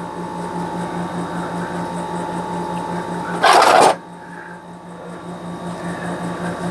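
A low machine hum pulsing rapidly and evenly, with a loud half-second burst of hissing noise a little over three seconds in.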